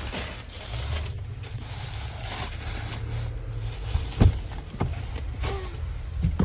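Low, steady rumble of a pickup truck's engine running, heard from inside the cab, with a few knocks and one sharp knock about four seconds in.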